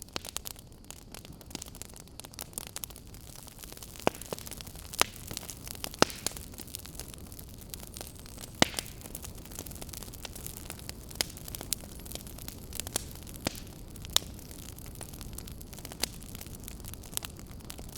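Wood fire burning in a fireplace: a steady low rush of flame with sharp crackles and pops at irregular intervals, a few of them loud.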